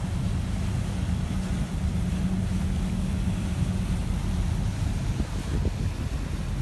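Wind buffeting the microphone, a steady low rumble with a fainter hiss above it.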